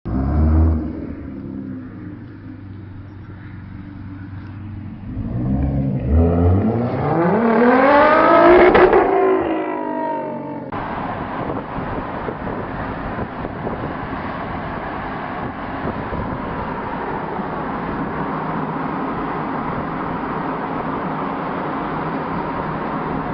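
Sports car engine: a loud low burst at the start, then idling, a quick blip of the throttle, and a hard rev that climbs in pitch and falls back. About halfway through, the sound cuts abruptly to a steady rushing noise with a faint steady hum.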